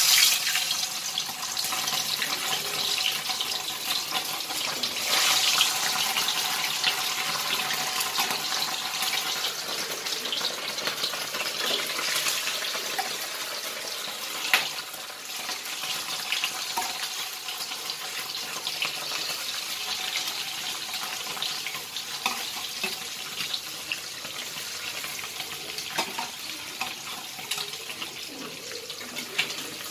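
Pieces of steamed egg cake sizzling in hot oil in a steel kadai. The sizzling starts abruptly and slowly grows quieter, with a few sharp clinks of a steel spatula against the pan.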